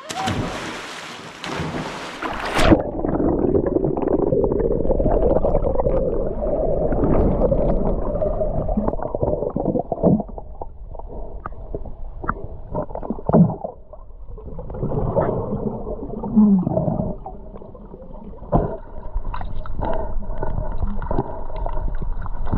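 Two people jumping into a mountain stream: a loud splash, then about three seconds in the sound turns muffled and low as it goes underwater, with gurgling, bubbling and scattered knocks from swimming.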